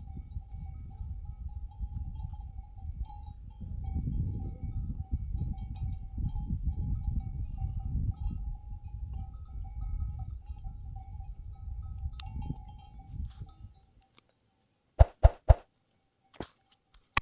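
Low wind-like rumble with a steady high tone running through it, amid a flock of sheep or goats; the sound cuts out abruptly near the end, followed by a few sharp knocks.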